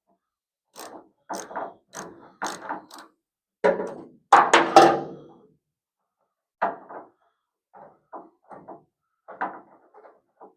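A series of short clunks and knocks from metal car-body parts and hand tools being handled during panel removal. The loudest is a clattering pair about four seconds in that dies away over about a second.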